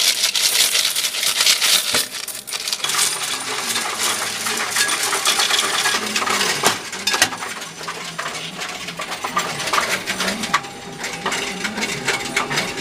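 Coins clinking and rattling in a continuous stream as they run through a Coinstar coin-counting machine.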